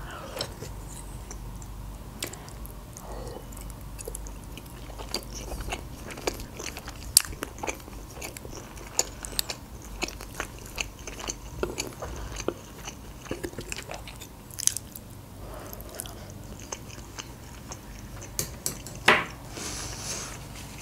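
Close-miked chewing and biting of grapefruit and lasagna: many small wet mouth clicks and crunches, a few sharper than the rest, over a steady low hum.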